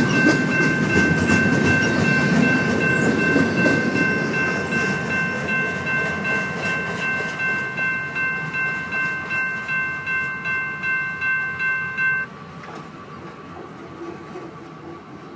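A train rolling past: railcar wheels clattering rhythmically over the rail joints beneath a steady high-pitched ringing tone. All of it cuts off abruptly about twelve seconds in.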